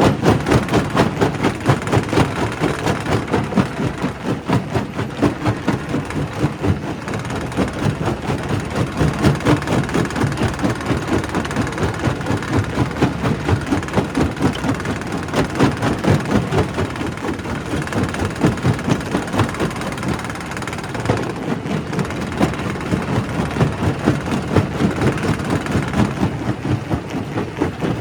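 Quarry primary rock crusher running, with a steady heavy rumble and dense, rapid clattering and knocking of rock being broken.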